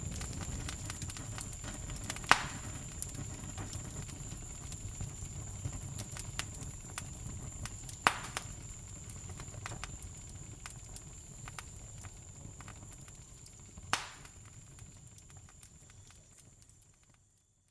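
Campfire burning: a steady low rumble with scattered small crackles and three louder pops, about 2, 8 and 14 seconds in. A steady high thin tone runs underneath, and everything fades out near the end.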